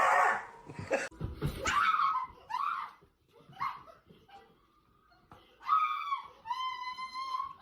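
A dog vocalising: short pitched calls in the first few seconds, then one long, steady high call near the end.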